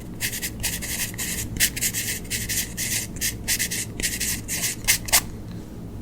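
Quick scratchy strokes of a drawing tool across paper, about three a second, stopping about five seconds in.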